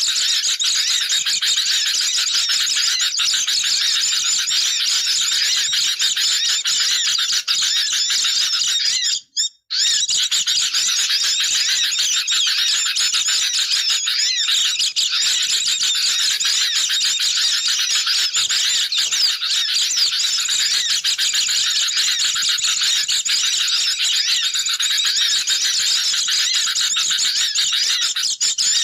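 Dense, noisy chorus of sooty-headed bulbuls and oriental white-eyes chattering and trilling continuously, a bird-lure recording. The chorus cuts out abruptly for about half a second roughly a third of the way in, then resumes.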